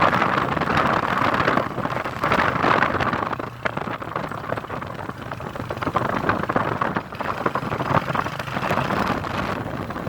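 Road and engine noise from a moving vehicle: a steady rushing noise over a low hum.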